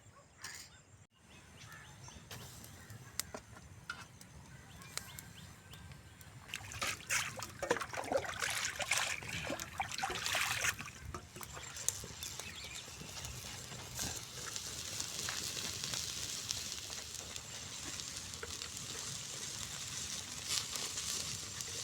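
Yogurt-marinated quail on a metal skewer sizzling over an open fire, with many small crackles and pops; the sizzle grows louder about seven seconds in and then holds steady.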